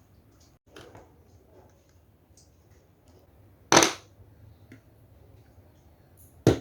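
Two sharp knocks about three seconds apart, the first with a short ringing tail, with faint small taps and clicks in between, the sound of objects being handled and set down.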